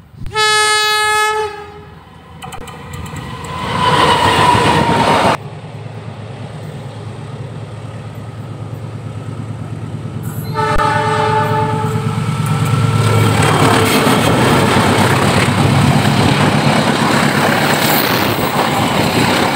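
Indonesian diesel passenger trains: a locomotive horn blast, then the rising rumble of an approaching train. After an abrupt cut, another long horn blast and the loud rumble and clatter of carriages passing close by.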